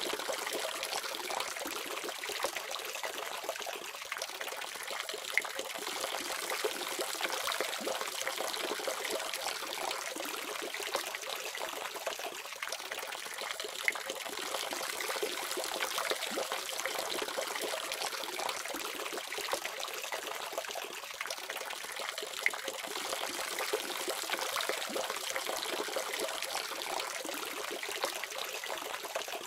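Water running steadily from a faucet, a continuous splashing trickle with small droplet clicks scattered through it.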